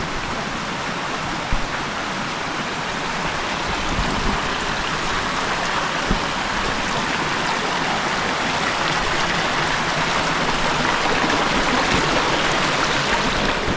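Steady rushing of a stream, getting a little louder in the second half.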